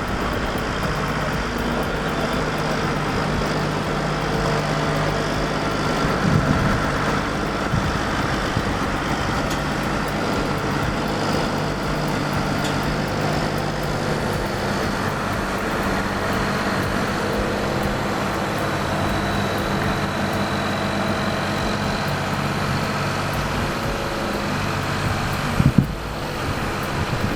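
Heavy-haul truck engine running steadily at a low pitch as the oversize rig works through a turn, with a brief knock about six seconds in and a sharper one near the end.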